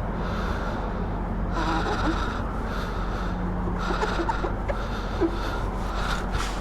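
A rag wiping and rubbing a wet motorcycle, in a series of soft swishing strokes about a second apart over a steady low hum.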